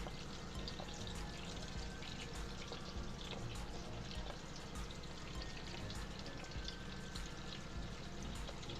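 Onions and bell peppers frying in rendered grease in a pan: a steady, quiet sizzle with fine crackles and small pops throughout.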